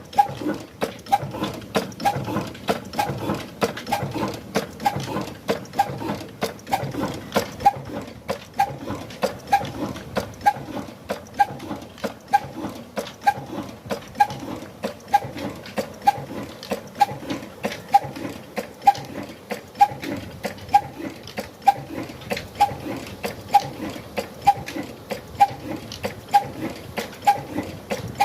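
Old Ruston 'kala' stationary diesel engine running at slow, steady speed: an even thud-thud of firing strokes at about two beats a second, each with a short ringing clank.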